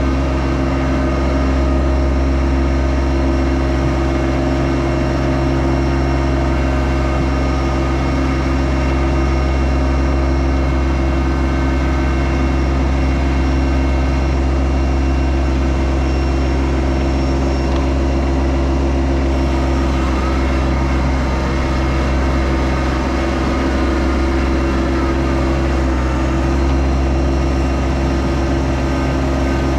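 Yanmar SA324 compact tractor's three-cylinder diesel engine running steadily at a constant speed.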